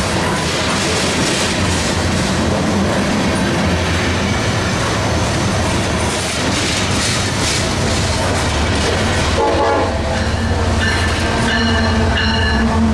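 Freight train passing close by, its cars rumbling loudly over the rails. A locomotive horn sounds near the end.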